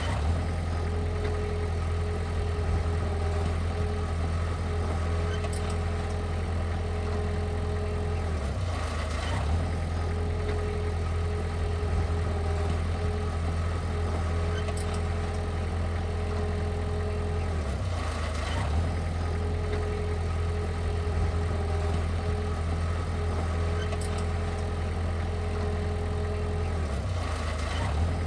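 Heavy earthmoving machine's diesel engine running steadily, with a brief dip and change in its note roughly every nine seconds.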